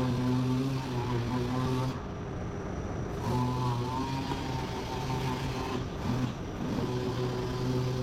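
A machine motor running with a steady hum, stopping for about a second twice: about two seconds in and again about six seconds in.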